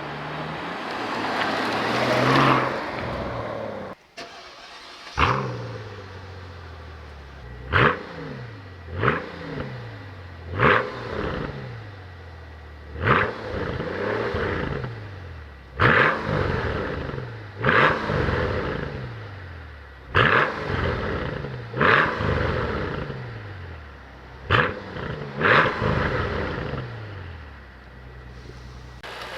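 2004 Mercedes S65 AMG's 6.0-litre V12 biturbo engine being revved: a longer rev early on that cuts off suddenly, then about a dozen quick throttle blips, each rising sharply in pitch and falling back.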